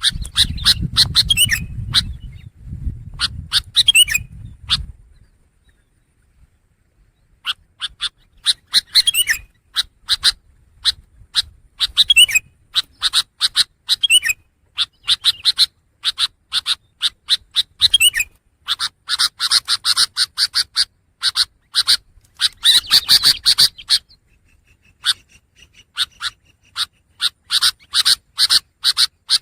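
Long-tailed shrike (pentet) singing: a fast run of short, sharp chirps and trills, with a pause of about two seconds partway through. A low rumble sits under the first few seconds.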